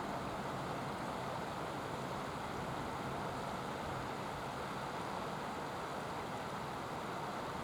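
Helicopter heard from afar as a steady drone with no distinct rotor beat.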